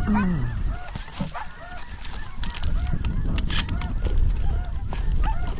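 Chorus of snow geese calling, many high, short honks overlapping without pause, over a steady low rumble of wind on the microphone.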